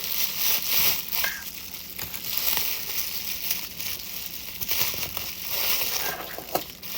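Packaging being unwrapped by hand: an irregular run of crinkling and crackling with small clicks.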